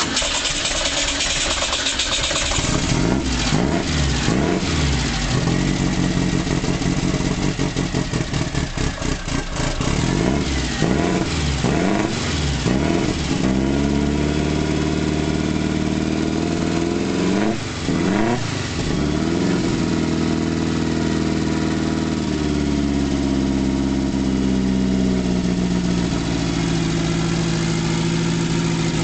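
A turbocharged 1955cc air-cooled VW flat-four fires up and is revved up and down several times, then settles into a steady idle for its first test run.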